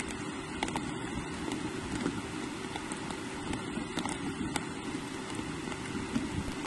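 Steady rain falling, with scattered sharp taps of drops landing close to the microphone.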